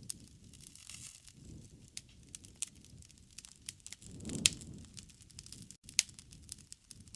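Wood fire crackling: scattered sharp pops and snaps over a low rustle of flames. The flames swell about four seconds in, with two louder pops, one about four and a half seconds in and one about six seconds in.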